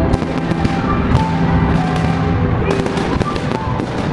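Fireworks going off in a dense run of sharp bangs and crackles in quick succession.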